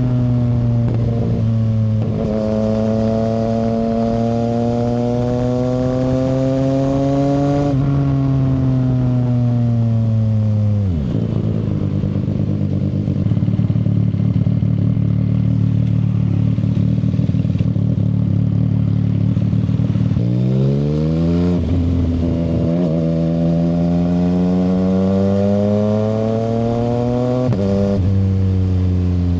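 CFMoto 675SR-R three-cylinder sportbike engine through an aftermarket shorty exhaust, ridden: the pitch climbs steadily, then falls away about eight seconds in and settles to a steady low note. Around twenty seconds in it revs up sharply, drops back, then climbs again with a step down near the end, like an upshift.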